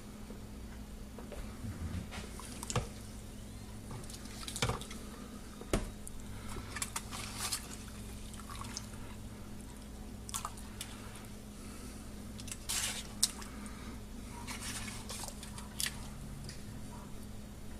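Scattered drips and small wet clicks from the hot baking soda and aluminium foil bath, over a steady low hum.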